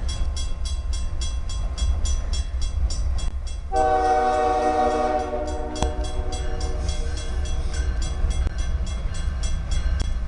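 Grade-crossing bell ringing steadily, about four strokes a second, over the low rumble of an approaching diesel freight train. Nearly four seconds in, the lead locomotive sounds a long chord on its air horn, which tapers off a few seconds later.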